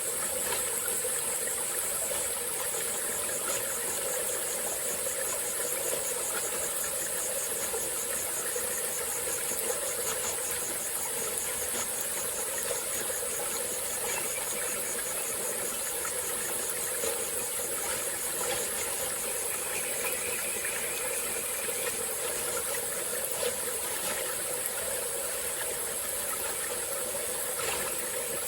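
Small tropical-forest stream flowing steadily, under a continuous high-pitched insect chorus with a fast, fine pulse.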